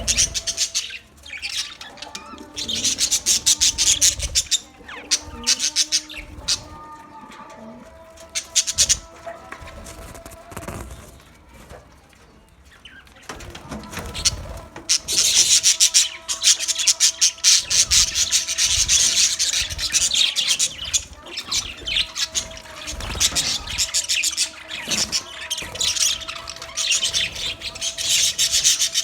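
A colony of budgerigars chirping and chattering in dense, rapid bursts. The chatter eases off for a few seconds around a third of the way in, then stays busy through the second half.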